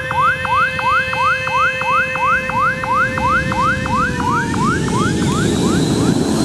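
Runway warning siren whooping: a rising sweep repeated about three times a second over a steady tone. It is the alarm meant to warn people off an unfenced runway as planes come and go. It fades out near the end as a rushing noise swells.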